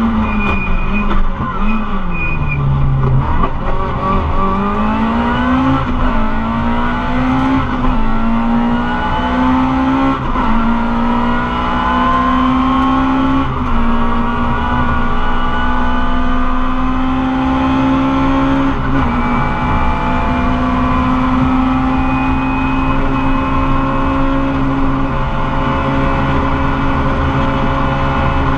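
Rally car engine heard from inside the cockpit under hard stage driving. The revs fall in the first few seconds, then climb through several upshifts, each marked by a quick drop in pitch. The engine holds steady high revs for most of the rest.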